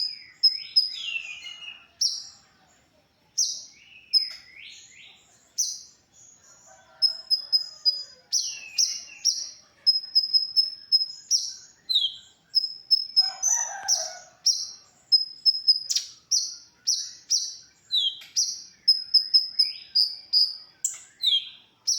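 Sunbird (the 'kolibri konin' of Indonesian songbird keepers) singing: a fast, repeated string of sharp, high chirps and short trills, broken by quick down-slurred notes. Sometime after the thirteen-second mark there is a short, lower call.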